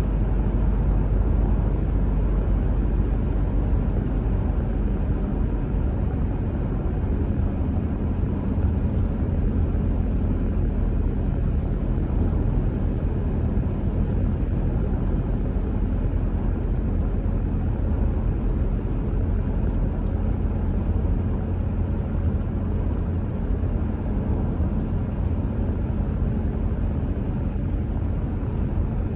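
A car driving at a steady speed: an even low rumble of engine and tyre noise that holds unchanged throughout.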